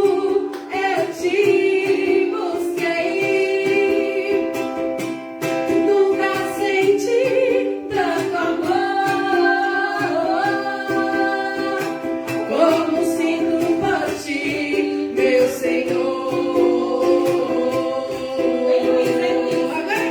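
Acoustic song performed live: a strummed small string instrument accompanying a singing voice.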